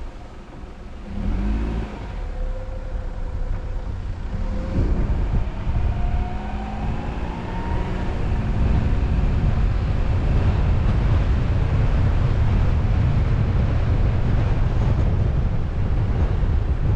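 Car driving: it is quieter for the first second, then the engine's pitch climbs as the car speeds up over several seconds and settles into steady running with a loud, low road-and-wind rumble.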